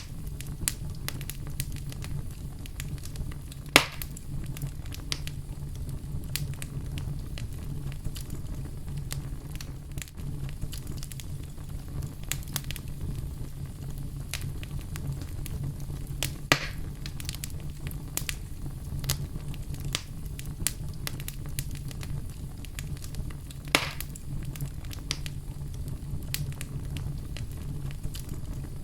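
Wood fire burning in a fireplace: a steady low rumble of flames with constant irregular crackling, and three louder sharp pops.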